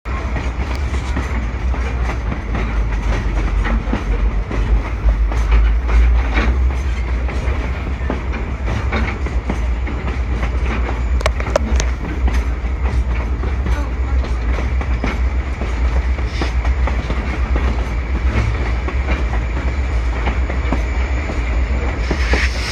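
Passenger train cars rolling along the track: a steady heavy rumble, with the wheels clicking over rail joints now and then.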